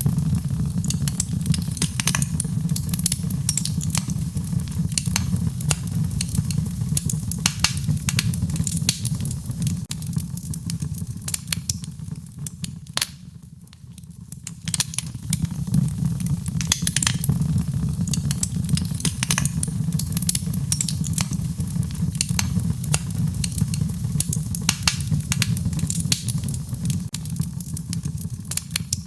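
Wood fire in a fireplace crackling, with frequent sharp irregular pops and snaps over a steady low rumble; the fire quietens briefly about halfway through.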